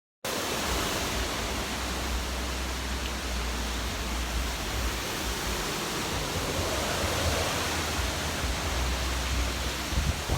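Hurricane wind blowing steadily as a loud rush of noise, with low gusts buffeting the microphone.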